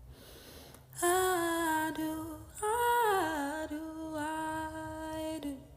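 A woman singing a wordless, hummed melody with no accompaniment: one held note, then a falling run that settles into a long held note.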